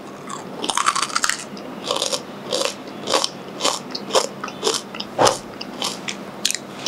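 A person biting and chewing a thin, crisp coconut cracker biscuit, with crunches coming about twice a second.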